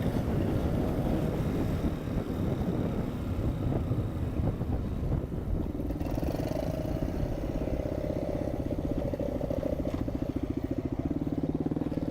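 Small off-road engine running while being ridden, with a rough, uneven rumble at first that settles into a steady drone from about six seconds in.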